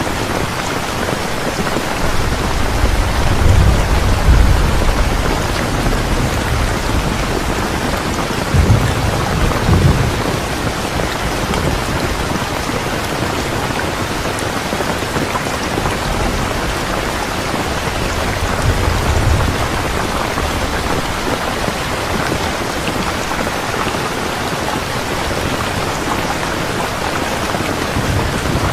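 Steady, even rainfall with low rolls of thunder, the loudest a few seconds in and another about nine seconds in, a softer one later.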